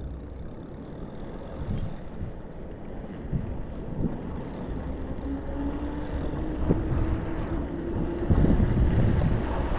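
Wind on the microphone and road noise from a moving e-bike, growing louder toward the end, with a faint steady hum from about five to eight seconds in.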